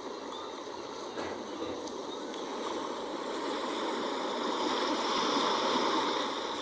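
Sea waves washing in a continuous rush, swelling to a peak about five seconds in and then easing off.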